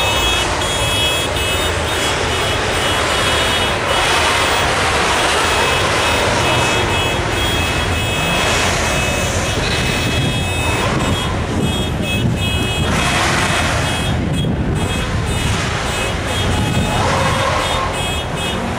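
Many motorcycle engines revving together in a parking deck, a continuous dense din of engines rising and falling, echoing off the concrete. A high-pitched pulsing tone sounds faintly over the engines through much of it.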